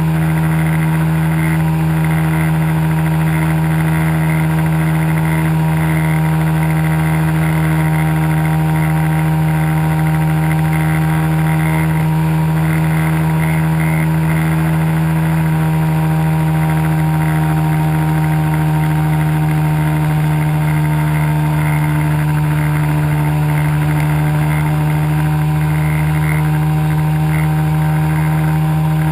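Pit bike engine running at a steady, unchanging speed, a loud constant drone with no revving up or down.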